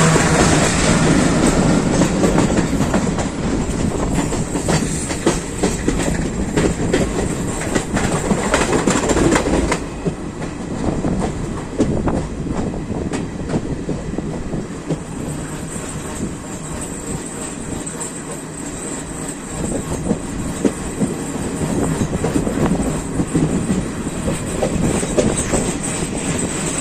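Train running along the track, its wheels clattering over the rail joints with frequent clicks; the sound eases and the clicks thin out about ten seconds in.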